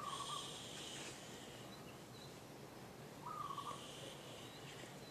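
A bird calling faintly, a short note repeated about every three seconds, with a buzzier, higher sound alongside each note.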